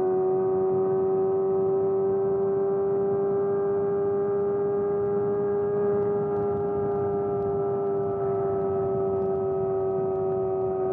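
Kawasaki ZX-4RR's inline-four engine breathing through a Trick Star Ikazuchi slip-on exhaust, held at steady revs. Its pitch creeps up slightly, then eases off a little near the end.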